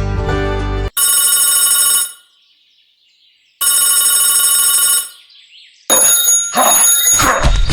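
Background music cuts off about a second in, then an electronic ringing tone like a telephone ring sounds twice, each about a second long with a pause between, followed by a rougher, noisier ring near the end.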